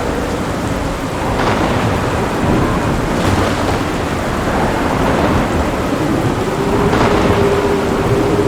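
Heavy rain falling steadily with rumbling thunder, and a few sharper cracks, about a second and a half, three seconds and seven seconds in.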